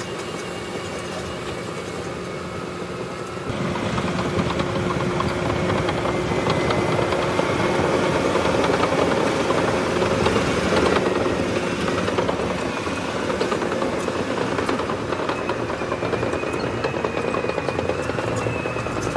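Bulldozer diesel engine running steadily with a faint whine; it gets louder about three and a half seconds in.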